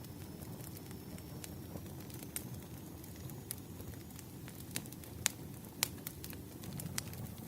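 Wood fire crackling: a steady low rumble with scattered sharp pops, two louder pops a little past five and six seconds in.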